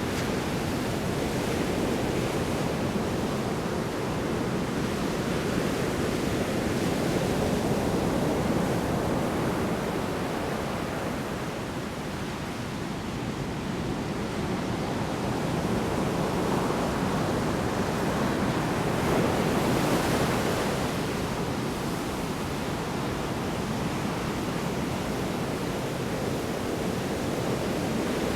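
Large storm waves breaking on a shore, a continuous rushing wash of surf. It swells with a breaker about 8 seconds in and again about 20 seconds in, and eases briefly between them.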